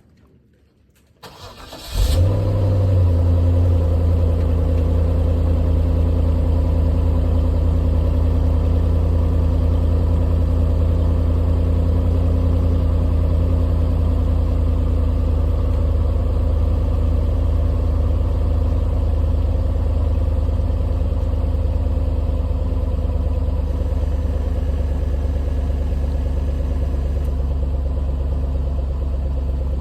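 2008 Cadillac 4.6-litre Northstar V8 (LH2) cold start: the starter cranks briefly, the engine catches about two seconds in, and it settles into a steady idle that eases slightly near the end.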